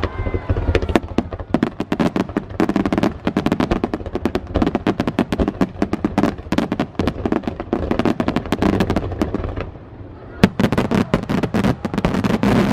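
Fireworks display: many shells bursting in quick succession, a dense run of sharp bangs and crackling reports. About ten seconds in it eases briefly, then one especially loud bang sets off another rapid volley.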